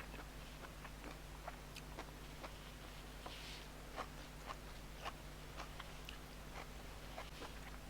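A person chewing steamed fish close to the microphone: irregular soft wet mouth clicks, two or three a second, over a steady low electrical hum.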